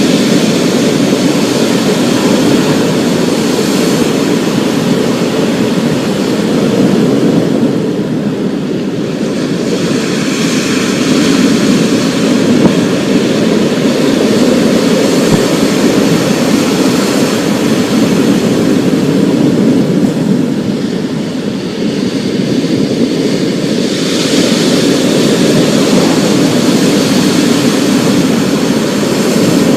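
Storm ambience: a loud, steady rushing noise with a deep rumbling body. It swells and eases a couple of times.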